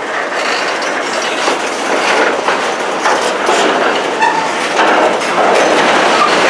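CN train's cars rolling past, wheels clicking over rail joints, with a few brief wheel squeals in the second half.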